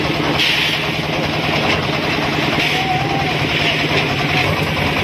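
A vehicle or machine engine running steadily, a constant low drone without revving.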